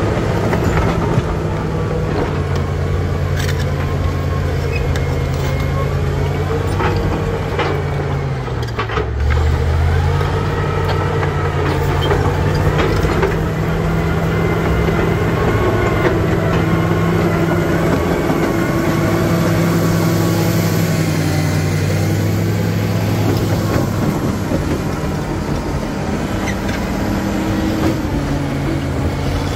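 Caterpillar D7G bulldozer's six-cylinder diesel engine working steadily. Its pitch sags briefly about nine seconds in and then picks back up, with scattered knocks and clanks throughout.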